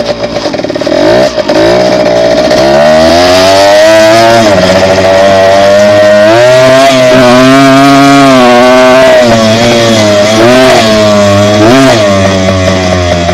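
Dirt bike engine running under throttle. Its pitch falls and rises several times as the throttle is opened and closed.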